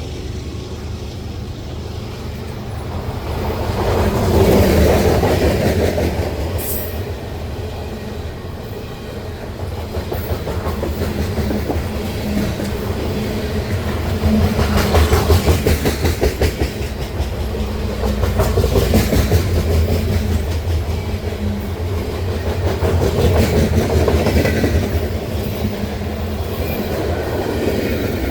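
CPKC freight train rolling past, its wheels clacking and rattling over the rails, the noise swelling and easing every several seconds.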